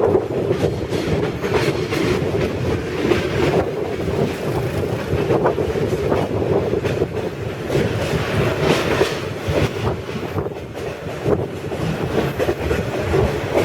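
Passenger train running along the track: a steady rumble of wheels and carriages with irregular clatter over the rails.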